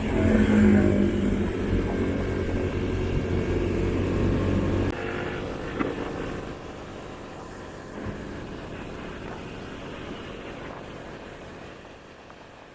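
Motorcycle engine running with road rumble, loudest in the first second. The low rumble drops off abruptly about five seconds in, and the sound then fades steadily away.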